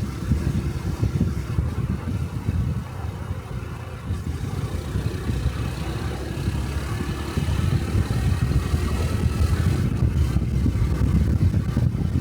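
125 cc single-cylinder Honda Cub motorcycle riding along, its engine and exhaust running under a gusty rumble of wind on the microphone. It gets louder about two-thirds of the way through.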